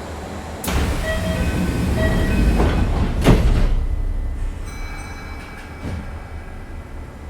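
Kintetsu 5800 series electric train running, heard from inside the car, with a steady rumble. About a second in, a sudden loud rush of noise comes in and peaks with a sharp burst a little after three seconds. It then dies back to the running rumble.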